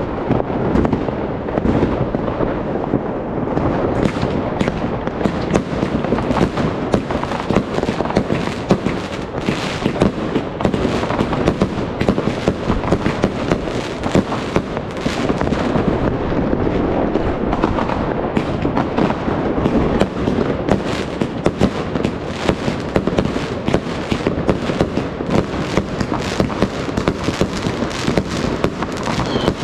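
Snowstorm 2.0 crackling firework (Evolution Fireworks) going off: a dense, continuous crackle of many small sharp pops, kept up without a break.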